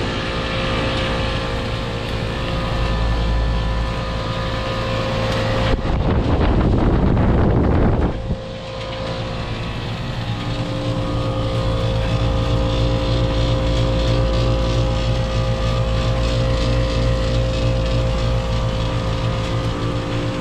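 Outdoor air-conditioning or heat pump condensing unit running: a steady compressor hum with fan noise. From about six to eight seconds in, a louder rushing noise covers it.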